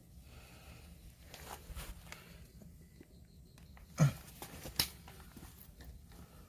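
Light rustling, then two sharp clicks a little under a second apart, the first the loudest, made while fire-lighting gear is handled.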